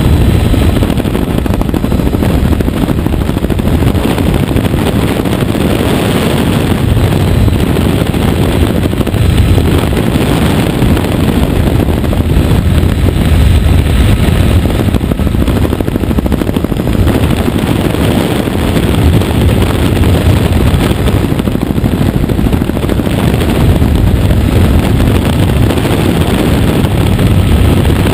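Helicopter in flight: loud, steady rotor and engine noise.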